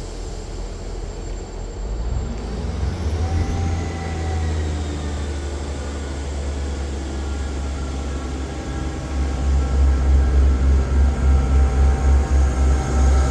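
Train running at a station platform: a deep, steady rumble with faint whining tones. It grows louder about two seconds in and throbs heavily in the last few seconds.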